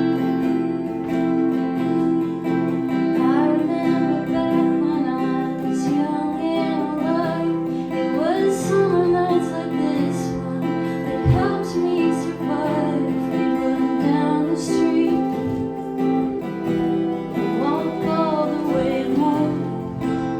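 Acoustic guitar strumming a slow song, with a woman singing over it from about three seconds in.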